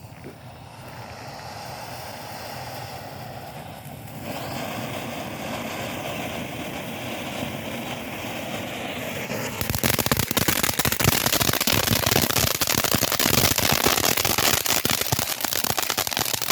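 Bright Star 'Hello Summer' watermelon firework fountain going off: a steady spray hiss that gets louder about four seconds in, then dense crackling from about ten seconds in.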